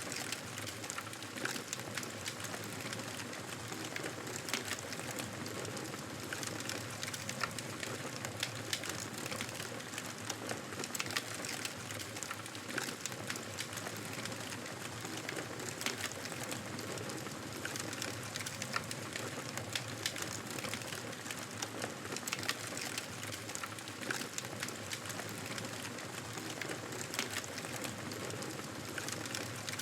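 Wood fire in a fireplace crackling: a steady hiss with frequent small pops and snaps scattered throughout.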